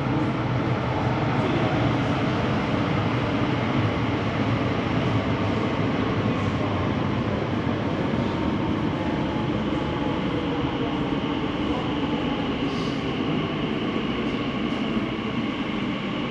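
Onboard running noise of a Southern Class 377 electric multiple-unit train under way: a steady, dense rumble of wheels and track with a faint, even whine above it.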